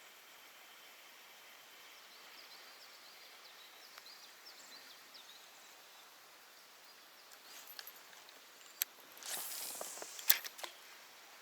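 Quiet outdoor background with faint bird chirps. Near the end come a few sharp clicks, a short swish and one loud click, from spinning tackle being handled.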